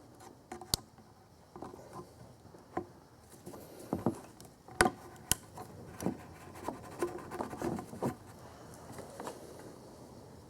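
Scattered light metallic clicks and knocks of hand work with spring-clamp pliers on a spring hose clamp and radiator hose, coming irregularly every second or so.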